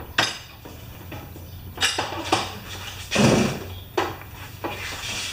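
Several separate metallic clinks and clatters of metal objects being handled, the loudest about three seconds in, over a low steady hum.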